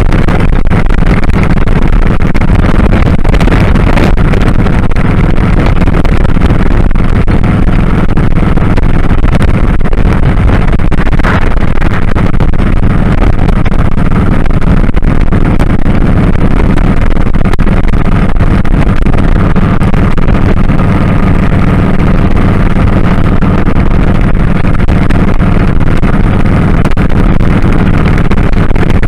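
2001 Kawasaki Drifter 1500's V-twin engine running steadily on the road, loud and unbroken.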